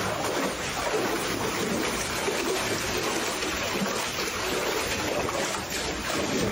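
Steady running water with some light splashing.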